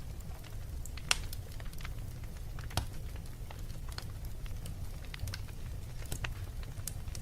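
Wood fire burning in a fireplace: a steady low rumble of flames with scattered crackles and pops, the loudest about a second in.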